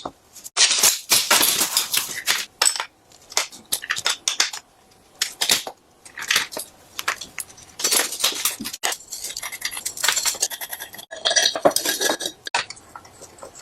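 Metal tools and bike parts clinking and scraping: a run of short, sharp metallic knocks with a few longer rasping scrapes, typical of hand work on a rusty BMX bike.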